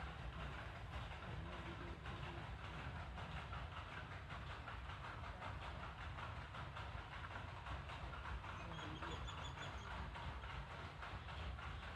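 Water running steadily onto plant leaves, a continuous splashing trickle. A short high bird trill sounds about nine seconds in.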